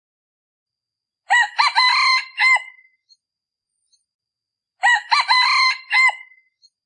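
A male decoy junglefowl crows twice, each crow a short run of clipped notes lasting about a second and a half. This is the call used to lure wild junglefowl into calling back.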